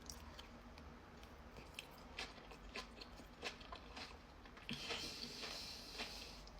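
Faint chewing with scattered small crunches, from a mouthful of chocolate and crunchy pistachio kunafa.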